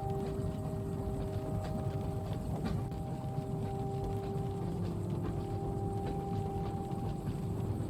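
Train carriage interior ambience: the steady low rumble of a moving train with a faint steady hum of several tones, and light scattered ticks of rain on the window.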